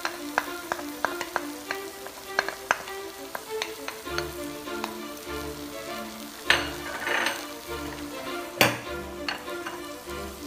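Crabs and lobster sizzling in a wok as oyster sauce is scraped in off a plate, with many sharp clicks of a wooden spatula against the plate and pan. A louder burst of sizzling comes about six and a half seconds in, and a single sharp knock comes near the end, under background music.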